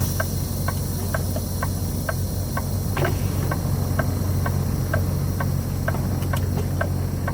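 Semi-truck's diesel engine idling with a steady low hum, a light regular tick about twice a second, and a high hiss that sets in at the start and fades toward the end.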